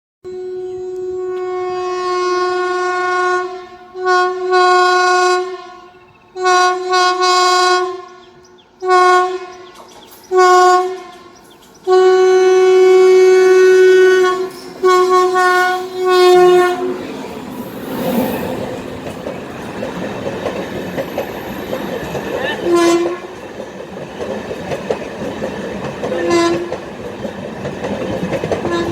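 WAP-7 electric locomotive horn sounded in a string of about seven blasts, some long and some short, over the first two-thirds. Then comes the steady rush of the express train passing, with wheel knocks over rail joints every few seconds.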